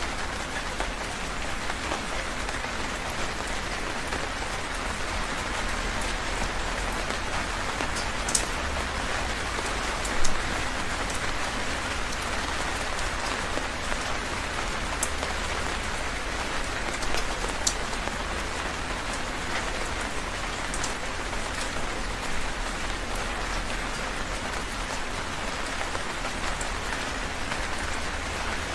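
Heavy rain falling steadily, with a few sharper close drops standing out as clicks, the loudest about ten seconds in.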